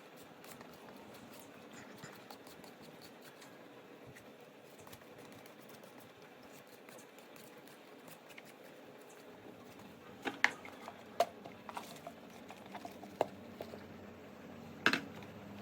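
Faint steady background hiss. From about ten seconds in come a few sharp clicks and knocks, like small objects being handled and set down.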